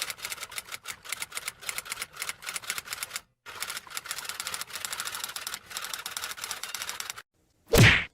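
Typewriter typing sound effect: rapid key strikes with a brief pause about three seconds in, then one short, loud thump near the end.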